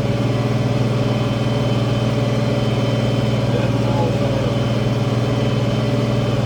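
International Harvester 1566 tractor's turbocharged six-cylinder diesel running at a steady speed, pulling a field cultivator.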